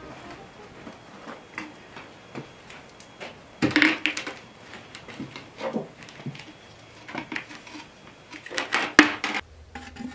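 Scattered clinks, scrapes and knocks of kitchen utensils against dishes and wood, with the loudest clatters about four seconds in and again near nine seconds.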